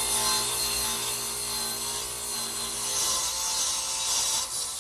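Radial arm saw running and cutting through a wooden side panel: a steady motor hum with the blade's sawing noise over it.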